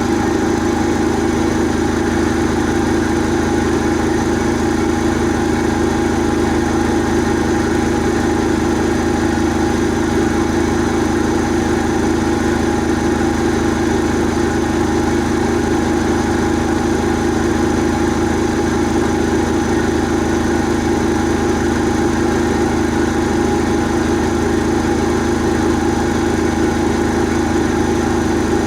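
Asko Quattro W6098X washing machine in its final spin, the drum turning at a steady high speed (limited to 1600 rpm), with an even whine and hum that holds the same pitch throughout.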